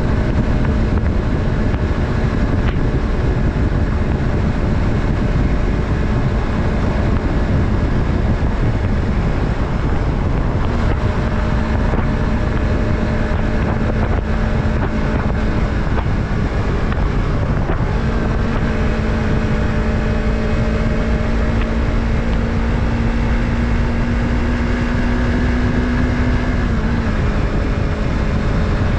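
Yamaha MT-03's 321 cc parallel-twin engine running at a steady cruise, with heavy wind rush on the microphone. The engine note steps up about ten seconds in, climbs slowly in the second half, and drops abruptly near the end.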